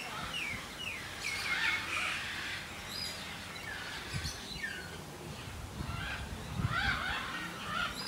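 Several birds calling: short, falling chirps and whistles, in a busy flurry in the first two seconds and again about six seconds in.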